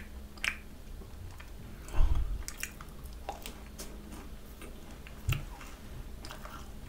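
Close-up chewing of a yellow-cheese macaron, with wet mouth clicks and soft squishes as it is bitten and chewed. A louder soft thump comes about two seconds in and another just after five.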